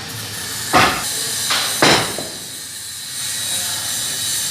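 Three sharp knocks about a second in, unevenly spaced, over a steady hiss, at a site where a reinforced-concrete building is being demolished.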